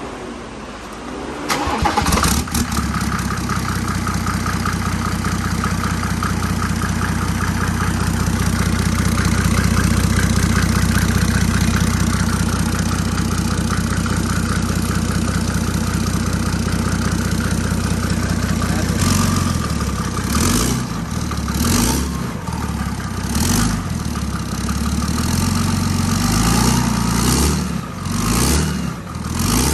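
Mercedes-Benz OM606 inline-six turbo diesel, just fitted with a Borg Warner S200SXE turbocharger, cranking briefly and catching on its first start. It idles steadily, then is revved in a series of quick blips through the last third.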